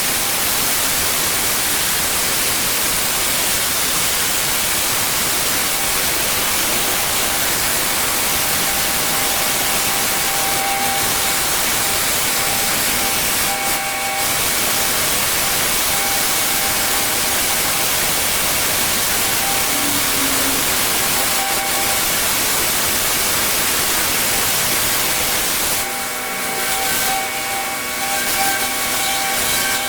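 Pressure washer spraying paving: a steady, loud hiss of the water jet over the running machine, changing near the end as the spray is moved or eased off.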